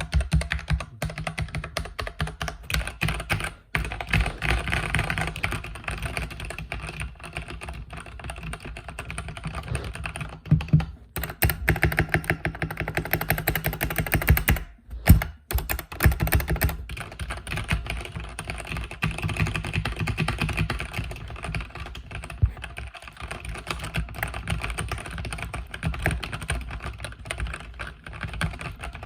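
Mechanical keyboard with red linear switches being typed on: a rapid, continuous run of keystrokes broken by a few brief pauses.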